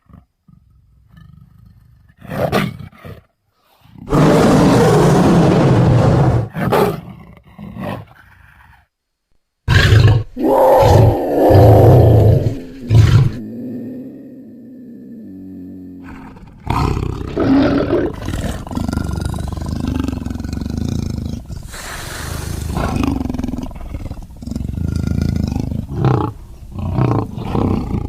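Big-cat roars and growls edited together as a monster sound effect, mixed from lion, tiger and leopard recordings. Loud roars come one after another, broken by a couple of brief silences, with a quieter low rumbling stretch around the middle.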